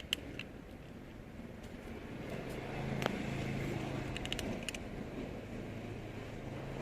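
A motor vehicle's engine running with a steady low hum that grows louder about two and a half seconds in, with a few light clicks over it.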